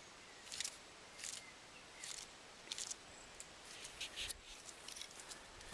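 Footsteps crunching on dry forest-floor litter, a step about every 0.7 s at first, then a quicker cluster of crackles in the second half.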